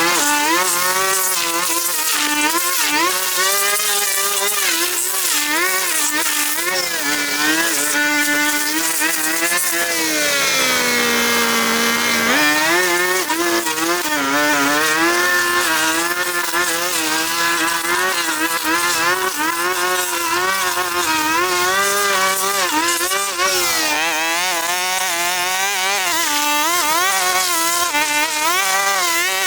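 Small two-stroke engine running at high revs, its pitch wavering up and down with load. About ten seconds in, the pitch falls as the throttle eases off, then it revs back up.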